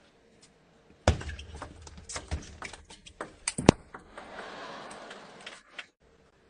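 Table tennis rally: the celluloid ball cracks off the rackets and ticks on the table in an irregular run of sharp clicks, the loudest about halfway. The crowd follows with a short burst of noise.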